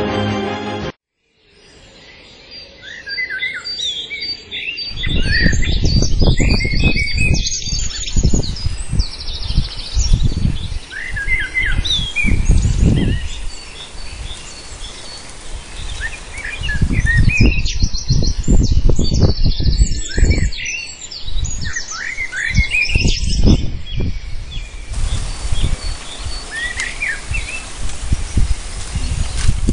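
Many small birds chirping and singing, short quick calls overlapping, with heavy uneven low rumbling underneath from about five seconds in.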